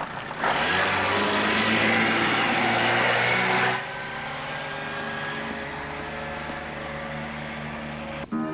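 An engine running steadily under a loud rushing noise. The sound drops suddenly to a quieter steady drone about four seconds in.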